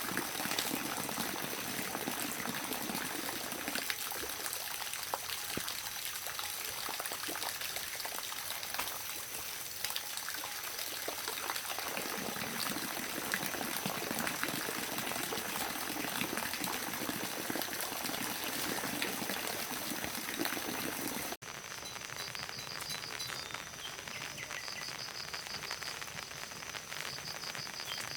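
Steady rain pattering, a dense even hiss of drops. About three-quarters of the way through the sound cuts abruptly, and a high, rhythmic pulsing chirp joins the rain.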